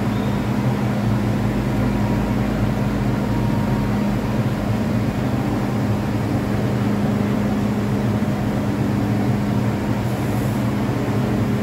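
Steady low hum of a stationary MTR M-train's on-board equipment, such as its air conditioning, as the train stands at the platform.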